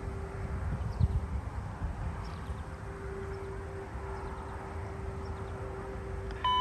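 Trackside background of low rumble with a faint steady hum and a few faint bird chirps. Near the end a scanner radio gives a short, clear beep as a defect detector transmission opens.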